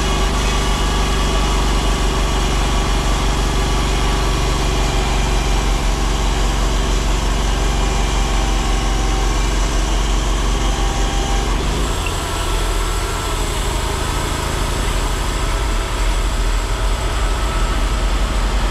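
Timberking 1600 sawmill running under power while sawing a board; its engine note and sound shift about twelve seconds in.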